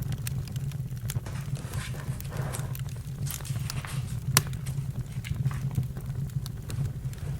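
Campfire crackling: scattered sharp pops and snaps, one louder pop a little past the middle, over a steady low rumble.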